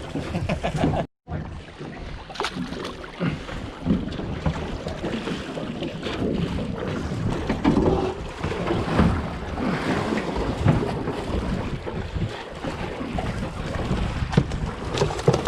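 Wind buffeting the microphone, with waves washing against a boat at sea. The sound drops out completely for a moment about a second in.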